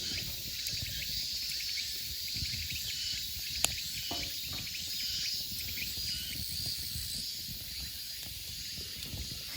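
Wood campfire crackling with small pops and one sharp snap a few seconds in, against a steady chirring of insects.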